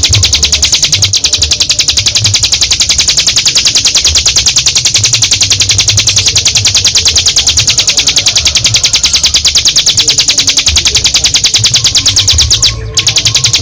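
Ciblek gunung, a prinia, singing its long 'ngebren' song: a fast, even trill of many short repeated high notes that runs on without a break, pausing briefly near the end before starting again.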